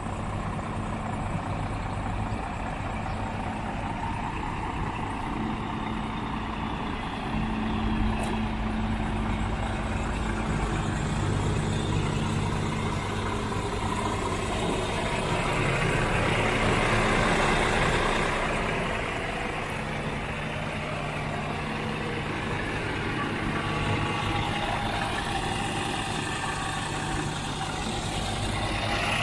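Scania R490 truck's 13-litre six-cylinder diesel idling steadily, with a louder rush of noise for a couple of seconds about halfway through.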